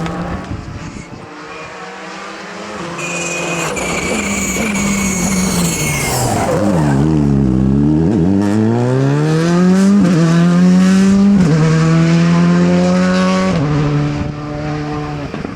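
Rally car on a stage: tyres squeal as it slows into a corner, the engine revs drop low, then it accelerates hard, changing up three times as it comes past and pulls away.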